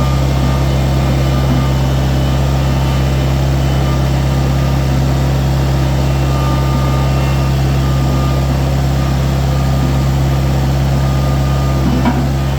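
An engine idling steadily, a loud, even low hum with no change in speed.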